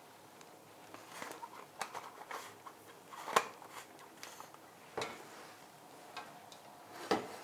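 Scattered light clicks and knocks of kitchen containers and utensils being handled, with three sharper knocks about a third of the way in, around the middle and near the end.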